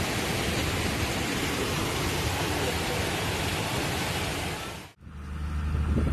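Rushing water: a steady, dense rush of noise, as of a heavy flood torrent, that cuts off abruptly about five seconds in. A low steady hum, like an engine, follows.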